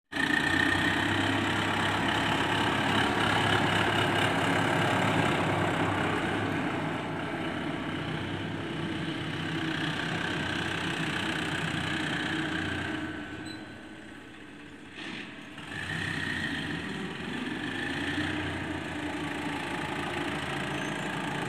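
Sonalika 50 hp tractor's diesel engine running steadily, louder at first, dropping off for a few seconds about two-thirds through, then picking up again.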